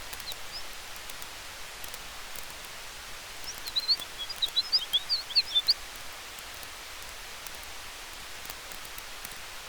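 Campfire with a steady hiss and faint scattered crackles under forest wind. About three and a half seconds in, a bird gives a quick run of high chirps lasting about two seconds, with a couple of single chirps near the start.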